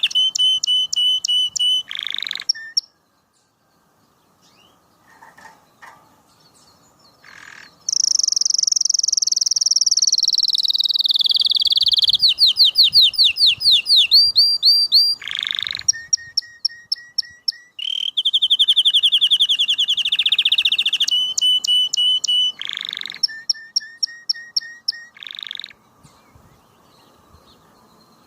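Canary singing: phrases of rapid repeated trills and rolls, each phrase on a different pitch, with a few seconds' break about three seconds in before the song resumes and then dies away near the end.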